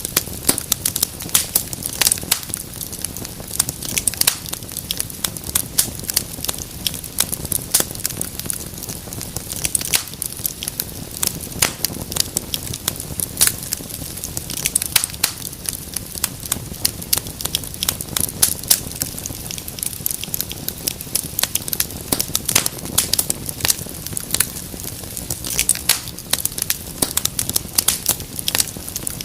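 Wood fire crackling and popping in a fireplace: irregular sharp snaps several times a second over a steady low rumble of flames.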